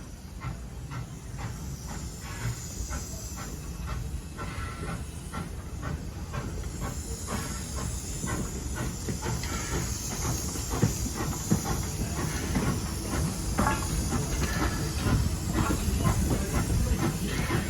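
Steam locomotive hissing steam, with irregular clanks and knocks from the train; the hiss grows louder about seven seconds in.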